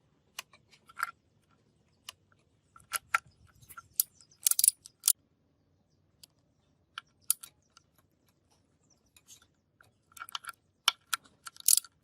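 Irregular metallic clinks and taps, many with a short ring, while parts of a rusty gearbox are handled. Brief scraping sounds come in the middle and near the end.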